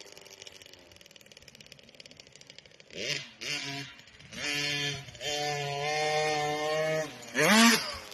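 Motocross bike engine running on the track: low and distant for the first few seconds, then revving up in several bursts, holding steady revs for a couple of seconds, with a sharp rev up and back down near the end.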